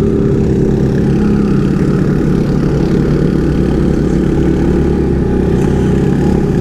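Kawasaki KLX140 pit bike's single-cylinder four-stroke engine running steadily under way, at an even, moderate speed.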